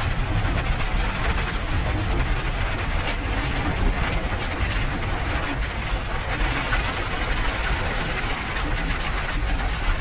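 Steady rain: an even, unbroken hiss with a deep low rumble underneath.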